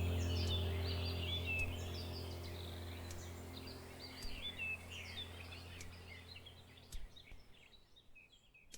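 Many birds chirping and twittering in quick short calls over a low steady drone. Both fade out over about seven seconds into near silence.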